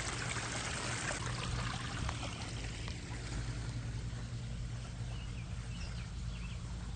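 Water splashing and trickling from a backyard pond's waterfall and fountain, fuller in the first half and thinner after. A steady low hum runs underneath, and a few faint short chirps, likely birds, come near the end.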